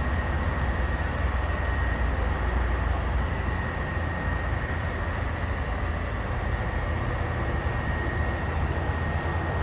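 Garbage truck's diesel engine running steadily: a low, even rumble with a thin, steady high-pitched whine over it.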